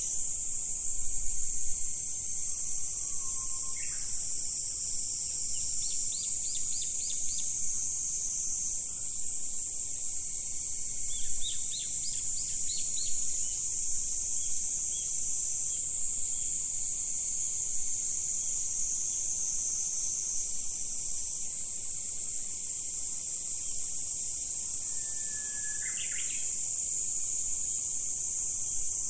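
A steady, high-pitched chorus of insects throughout, with birds calling over it now and then: two quick runs of rapid chirps, and twice a whistled note that ends in a sharp upward sweep.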